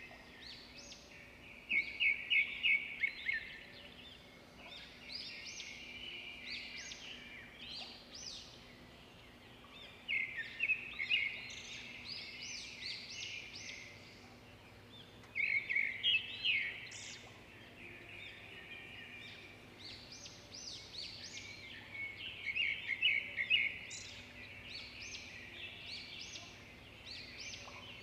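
Birds chirping and trilling, with bursts of quick high notes every several seconds over a faint steady low hum.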